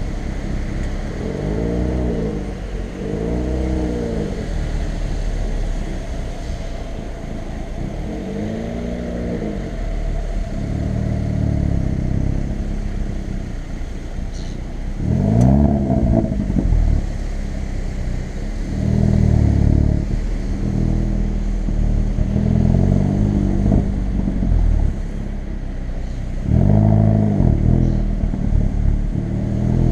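Hyundai i30 N's turbocharged 2.0-litre four-cylinder engine and exhaust. The revs shoot up and fall straight back in short blips, several times over, between stretches of steadier running.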